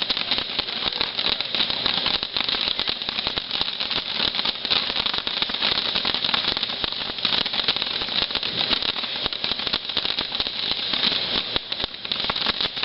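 Fireworks crackling: a dense, rapid run of small pops and snaps that keeps going without a break, with no large bangs.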